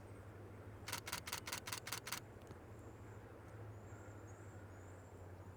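Nikon Z6 II camera shutter firing a rapid burst of about seven frames, about a second in. Faint high, thin calls of cedar waxwings follow in the second half.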